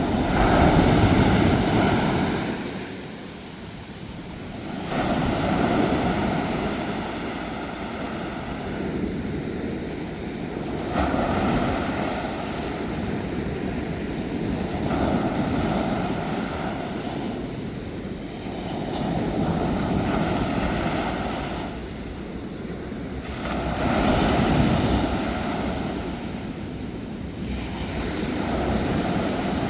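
Ocean waves breaking and washing onto a shore, the surf swelling and falling back every four to six seconds; the loudest wave comes about a second in.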